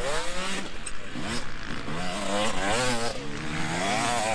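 Motocross dirt bike engines racing, their pitch climbing and dropping back again and again as the riders open and close the throttle, with other bikes running steadily underneath.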